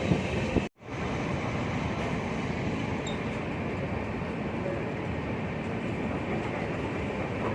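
Steady running noise of a passenger train on the move, the rumble of coach wheels on the rails. The sound cuts out completely for a split second a little under a second in.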